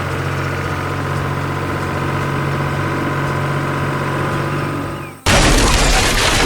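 Sound effect of a heavy vehicle's engine running steadily, cut off about five seconds in by a sudden loud crash-like burst of noise.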